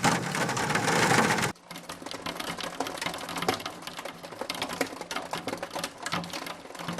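Heavy rain or hail falling loudly, then after a cut a dense, rapid rattle of small hailstones striking a hard surface.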